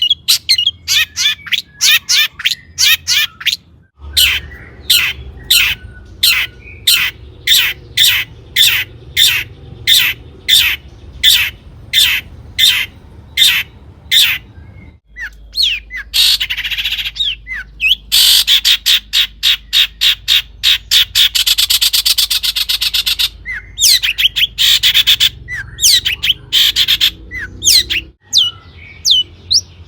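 Long-tailed shrike (cendet) singing: a run of sharp, repeated notes about two a second. About halfway through comes a harsh noisy burst and then a fast rattling trill, before the sharp notes return.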